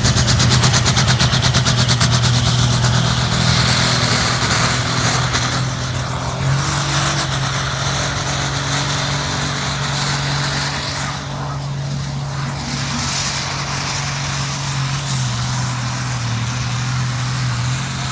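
Pulling tractor's engine running hard at high revs, loudest in the first few seconds, then holding steady.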